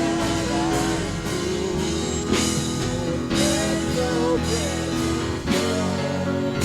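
Worship band playing between sung lines: held keyboard chords with guitar and a steady drum beat, and a voice singing a short phrase now and then.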